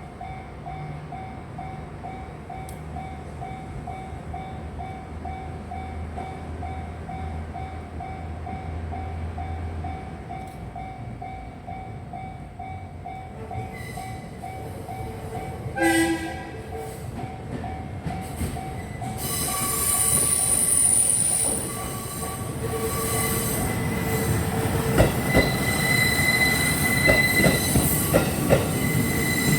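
A level-crossing warning bell rings steadily at about two dings a second. About sixteen seconds in, a KiYa E195 diesel rail-transport train gives a short horn blast. It then comes up and passes with rising engine and wheel noise, with wheel clacks over rail joints and some squealing wheels near the end.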